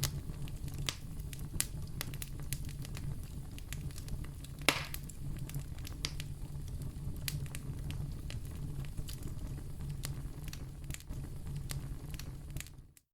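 Fire crackling in a fireplace: a steady low rumble with scattered sharp pops, one louder pop with a short hiss about five seconds in. The sound fades briefly to silence near the end.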